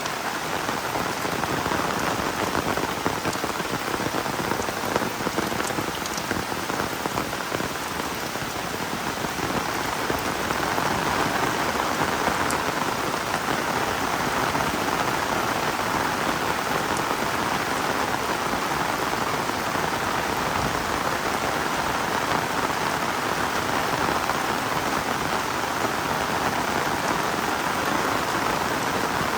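Heavy rain falling steadily, a dense even patter that grows a little heavier after about ten seconds.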